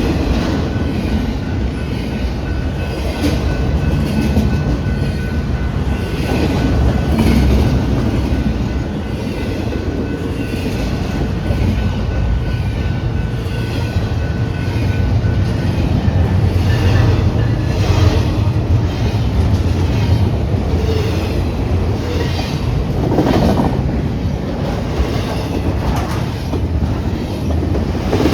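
A train passing close by: a steady heavy rumble with repeated clickety-clack as the wheels cross rail joints. A thin steady whine runs through the first half and stops about midway.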